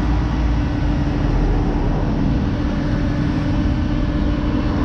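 A steady low rumble with a constant hum, even in level throughout: a running engine or machine droning.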